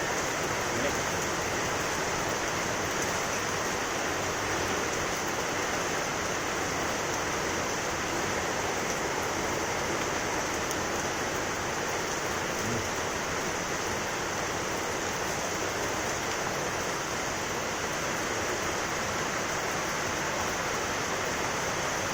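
Steady rainfall, an even hiss of falling rain that does not let up.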